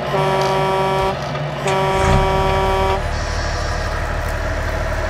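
Two blasts of a semi-truck air horn, each about a second long, followed by a steady low diesel engine sound as the truck pulls away.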